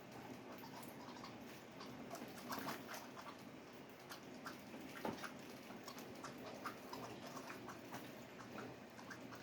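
A flock of birds feeding at bird seed on a windowsill: faint, irregular taps and clicks of beaks and feet on the sill, with an occasional faint chirp.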